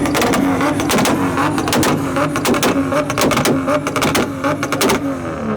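Car engine held at high revs, with a rapid string of loud exhaust pops and cracks that stop abruptly near the end.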